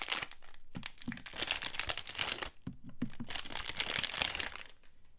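Soap wrapper being crinkled and torn open by hand: dense crackling that eases briefly about halfway and fades near the end.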